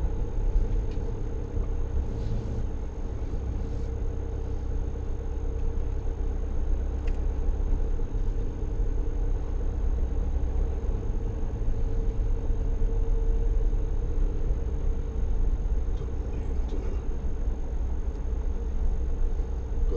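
Motorhome engine running steadily, heard from inside the cab, with a constant low drone and a steady hum.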